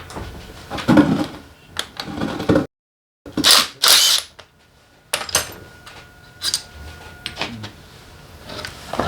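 Hand tools working on a motorcycle engine: irregular metallic clicks, clinks and knocks. There is a short rasping stretch about three and a half seconds in, just after a half-second dropout to dead silence.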